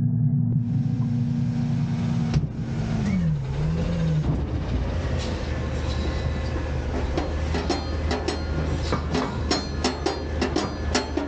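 Autocar/Heil garbage truck running with its engine revved; the revs drop away about three seconds in. From about seven seconds a rapid run of sharp clatters and bangs follows as a bin is dumped.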